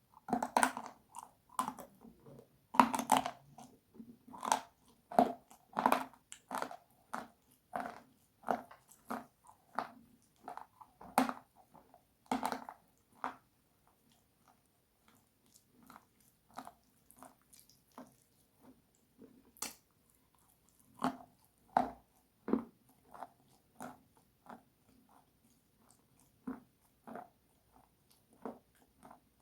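Close-miked bites and chewing of something hard and crunchy: a steady string of crisp crunches, one or two a second, with a few louder bites and a short lull partway through.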